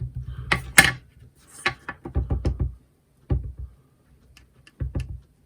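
Light knocks and taps of craft tools on a desk. A quick run of taps a little after two seconds in fits a stamp being inked on a Memento black ink pad.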